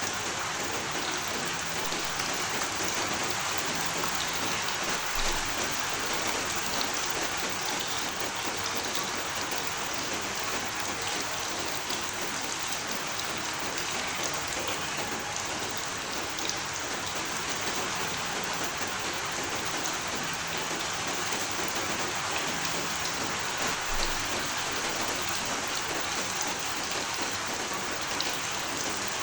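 Steady rain falling, an even hiss of drops with a few louder single drops standing out now and then.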